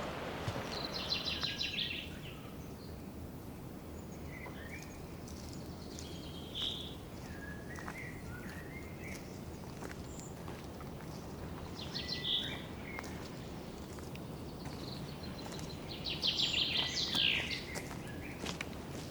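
Songbirds singing: a rapid trill about a second in, another about twelve seconds in and the longest near the end, with scattered short chirps between, over a steady low background rush.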